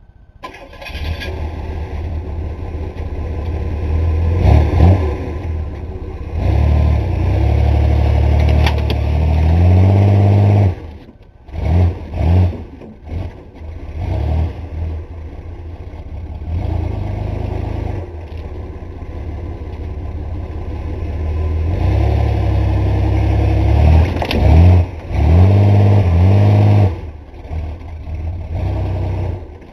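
Pickup truck engine, a 1985 Chevy S10, revving hard under load as the truck climbs. The revs rise in surges, cut off and restart several times about 11 to 14 seconds in, then build again to a peak near 25 seconds.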